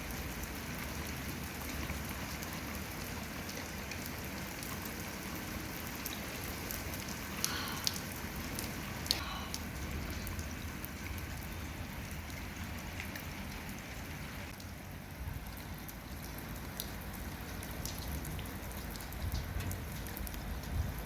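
Steady rain falling, with scattered sharp drop taps and a few louder taps around the middle.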